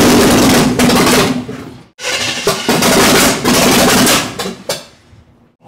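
Chevrolet small-block V8 running loud at its first start after being installed, heard in two stretches of about three seconds, each cutting off abruptly.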